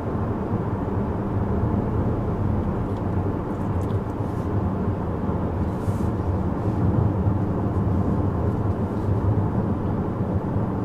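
Steady low hum of road and engine noise inside the cabin of a 2014 Chevrolet Impala with the 2.5-litre four-cylinder, cruising; the sound is kept down by its triple door seals, laminated glass and extra insulation.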